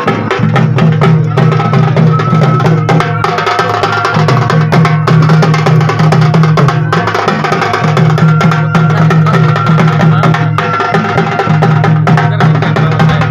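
Loud, continuous drumming with rapid strokes, played together with a sustained melody line.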